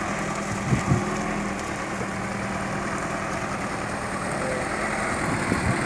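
Truck engine running steadily at a low, even speed, with a couple of short low thumps about a second in and again near the end.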